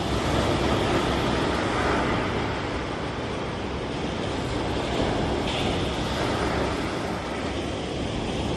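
Ocean surf washing in with wind buffeting the microphone, a steady rushing noise with a low rumble.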